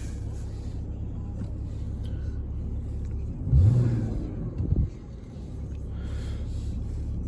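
Porsche 981 Boxster's 2.7-litre flat-six idling with a low, steady rumble. The revs rise briefly about three and a half seconds in and settle back about a second later.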